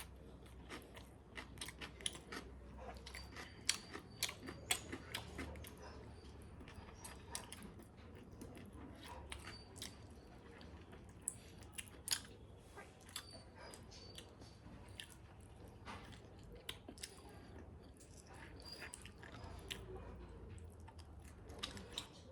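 Close-up eating sounds: a person chewing and biting pork, with many irregular short clicks and crunches of the mouth.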